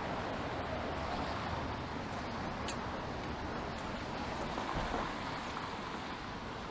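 Steady city street noise of passing traffic, car tyres hissing on rain-wet pavement.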